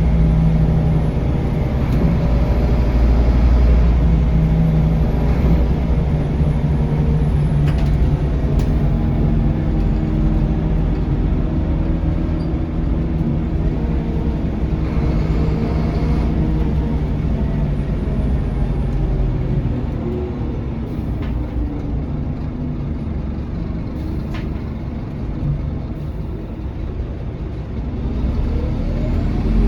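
Scania K230UB city bus's five-cylinder diesel engine heard from inside the cabin, pulling steadily, then easing off and quieter from about twenty seconds in, before revving up again near the end.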